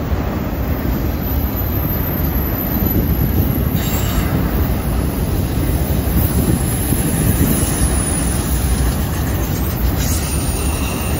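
Freight train's autorack cars rolling past on a curve: a steady rumble of steel wheels on rail, with faint brief wheel squeal about four seconds in and again near the end.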